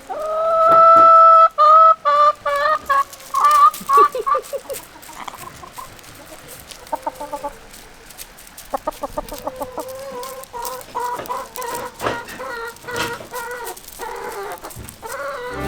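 Chickens calling: a loud, long held call about the first second and a half that breaks into a run of short falling notes, followed by repeated clucking.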